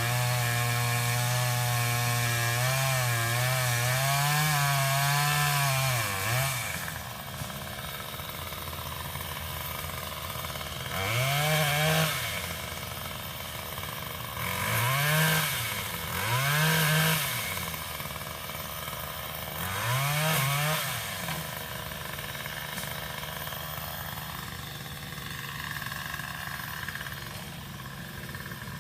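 Small engine of a Craftsman power limb cutter (pole saw) running at high speed for about six seconds, its pitch wavering as it cuts through a limb, then dropping to idle. Near the middle it is revved briefly four times, each time rising and falling in pitch.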